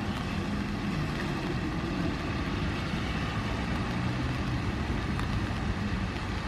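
A steady low rumble with a faint wavering hum, like an engine running at a distance or idling.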